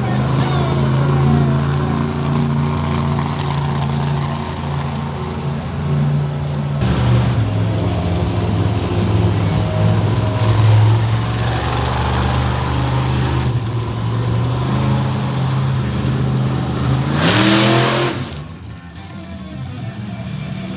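Monster truck engine running hard under sustained throttle, its pitch shifting about seven seconds in, then revving sharply upward near the end before backing off.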